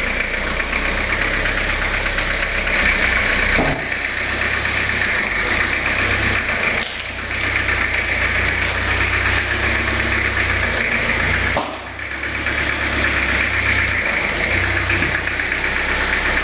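Peugeot 604 turbodiesel engine idling with a steady diesel knock, freshly started after sitting unused for a long time. The level dips briefly three times.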